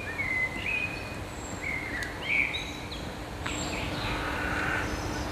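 Songbirds chirping in short high notes over steady outdoor background noise, with a faint steady hum underneath; the chirps fall in the first half and the background grows a little louder in the second half.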